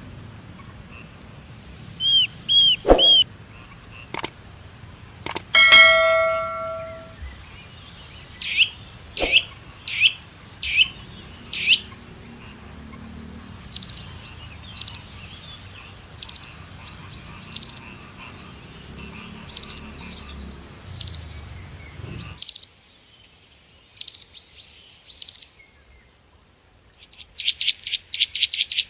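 Songbirds calling and chirping: a run of separate short calls, then repeated sharp whistled notes every second or so. A brief ringing tone sounds about six seconds in, and near the end a fast pulsing trill starts.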